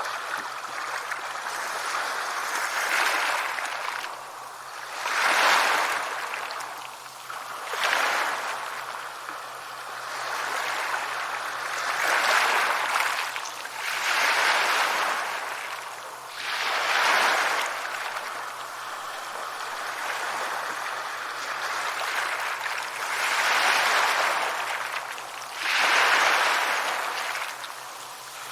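Sea waves breaking and washing up the shore, a fresh surge of rushing water swelling and falling away every few seconds.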